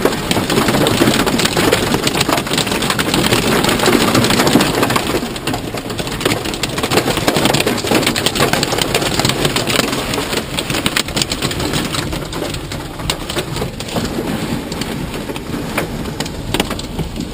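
Heavy storm rain drumming on a moving minivan's roof and windows, heard from inside the cabin as a dense patter of hits over road and engine noise. It is heaviest in the first few seconds, then eases a little.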